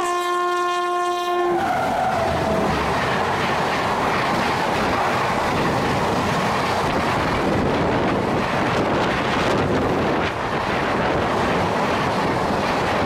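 Aboard a moving Indian Railways express train: a train horn sounds for about a second and a half at the start, one of its tones sliding down in pitch as it fades. Then the coaches run at speed with a steady rumble and clickety-clack of the wheels.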